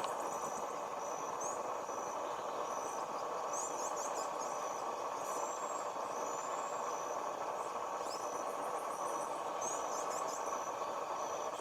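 Steady outdoor background hum, with a high, even chirp repeating a little under twice a second, like an insect, and a few short bird-like chirps scattered through.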